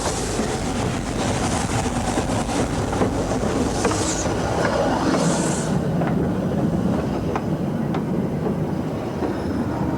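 Narrow-gauge steam train on the move, hauled by a Fairlie double engine: steady rumble and clatter of wheels on rail, with two short bursts of steam hiss about four and five seconds in.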